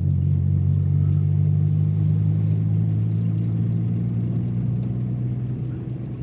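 Car engine and road noise while driving, a steady low drone that eases off slightly near the end.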